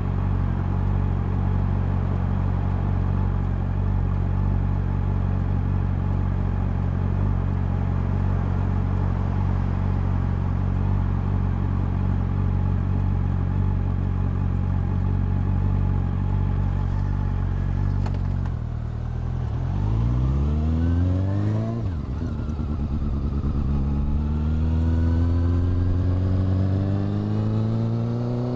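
Honda CB400 Super Four's inline-four engine and exhaust running steadily at low revs. About two-thirds of the way in, the revs rise as the bike accelerates. After a brief break for a gear change, the engine note climbs again near the end.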